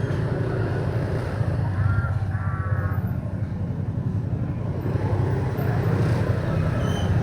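Motorbike on the move: a steady low drone of engine and road noise. A brief wavering higher tone cuts in about two seconds in.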